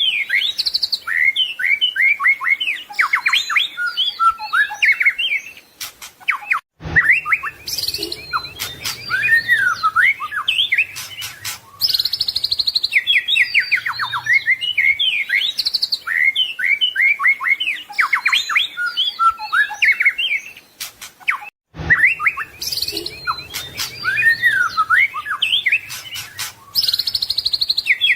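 White-rumped shama (murai batu) singing a loud, continuous, varied song of rapid whistles, trills and chattering phrases, breaking off for an instant twice, about seven and twenty-two seconds in.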